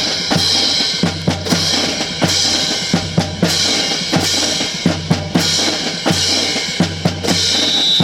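Drumming with snare and bass drum strokes in a steady, driving rhythm.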